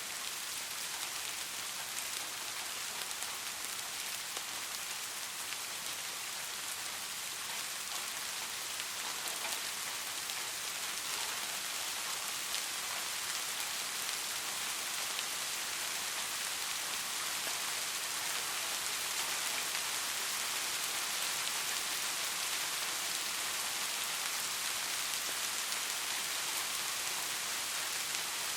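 Steady rain falling on a street, an even hiss with scattered small drop ticks.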